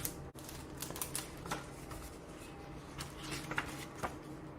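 A picture book being handled and opened: scattered soft clicks, taps and paper rustles, a few close together about a second in and again after three seconds, over faint room hum.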